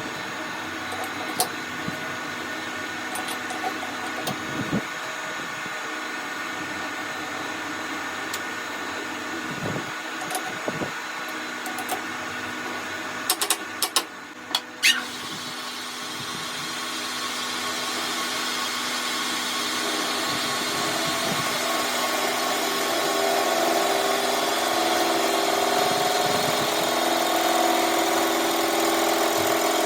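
A metalworking machine tool running steadily, with a few sharp clicks around the middle, then growing louder through the second half.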